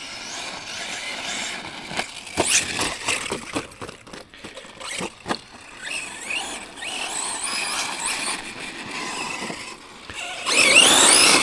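Electric RC monster truck (Tekno MT410 2.0) driving hard: its motor whines up and down with the throttle and the tyres spin on wet ground. There are several sharp knocks between about two and five seconds in, and a louder burst of revving near the end.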